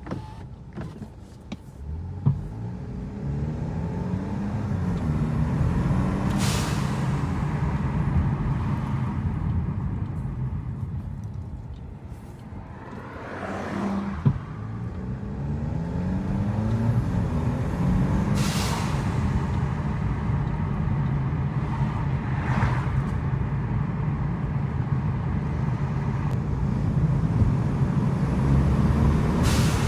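Car engine running with no exhaust system, pulling up in pitch through the gears and dropping back at each shift. A few short hissing bursts cut in along the way.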